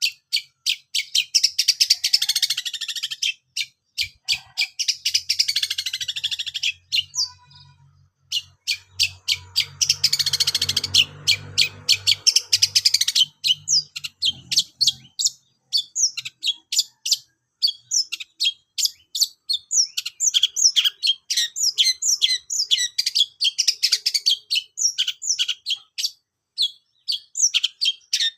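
Long-tailed shrike song: loud, fast chirps and dense trills with a brief pause partway through, then a long run of sharp repeated chirps, several a second. A faint low hum sits under the middle stretch.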